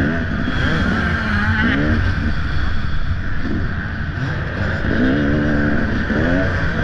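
Off-road motorcycle engine revving up and falling back again and again, its pitch rising and dropping with the throttle as the bike is ridden.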